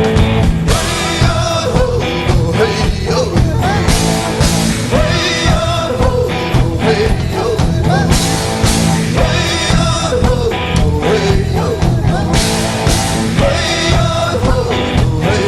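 Rock music from a band, with a singing voice over a steady beat.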